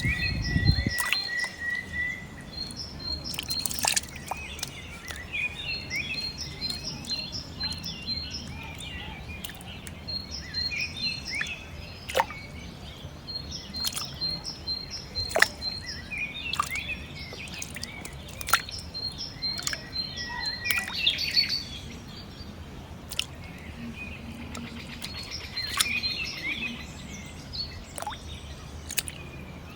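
Birds chirping in short repeated calls, with sharp clicks and taps now and then.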